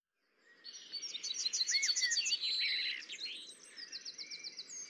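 Birds chirping: fast runs of high repeated notes and short whistled glides, starting about half a second in.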